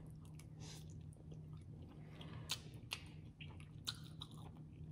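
Quiet chewing of a mouthful of food, close to the microphone, with wet mouth smacks and clicks; a few sharper smacks come about halfway through and near the end.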